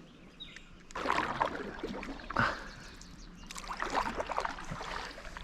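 Water splashing and dripping beside a canoe in two spells, about a second in and again around three and a half seconds.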